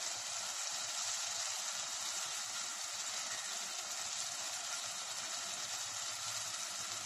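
Chicken, onion and tomato sizzling steadily in hot oil in an aluminium pressure cooker, an even frying hiss.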